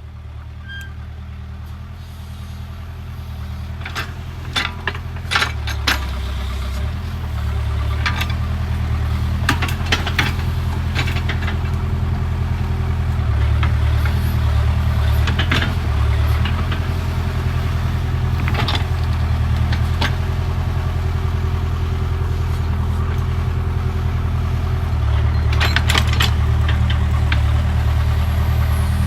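Backhoe loader's diesel engine running steadily, growing louder over the first several seconds as it is worked. Scattered sharp clanks and clicks come through over the engine.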